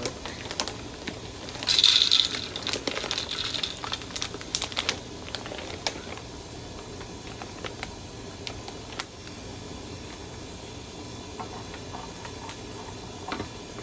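Handling of a bird feeder and its seed: a brief loud rustle about two seconds in, scattered clicks and taps until about six seconds, then only a steady low background noise with a few faint ticks.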